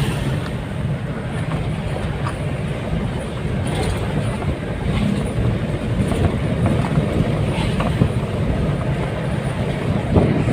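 Steady low rumble and road noise of a moving vehicle travelling along a road, with a few faint rattles.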